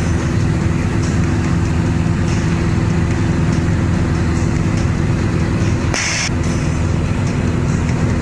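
A small airplane's engine running steadily in flight, heard from inside the cockpit. A short hiss cuts in briefly about six seconds in.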